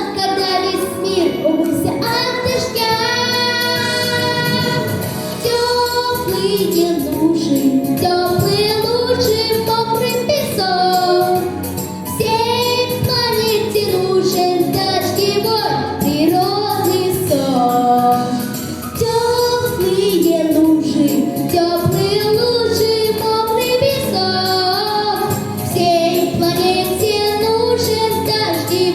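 A boy singing a children's pop song over a backing track, his sung melody continuing throughout.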